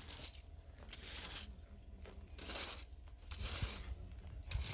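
Dry rustling scrapes, short and repeated roughly once a second.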